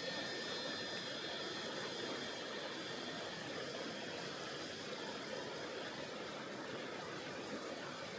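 Tonghou River, a mountain river, flowing steadily: a constant even rush of water. A few thin, high steady tones sound over it and fade out within the first couple of seconds.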